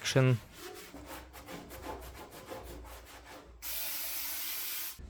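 Quick, repeated hand rubbing strokes on the bare metal panel, scrubbing it clean for paint, then a steady aerosol spray hiss of about a second and a half near the end, brake cleaner being sprayed on.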